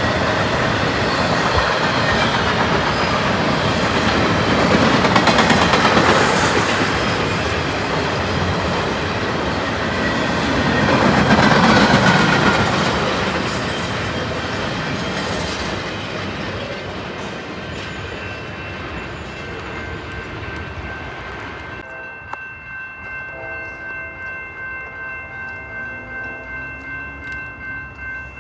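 A train passing close by: a loud rumble and rail noise that swells twice. Near the end the sound changes abruptly to a steady, high, several-note tone with a rhythmic beat of wheels over rail joints.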